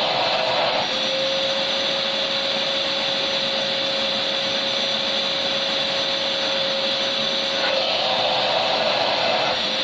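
Vacuum cleaner running steadily: a continuous hiss of rushing air with a steady motor whine underneath, the tone shifting slightly about a second in and again near the end.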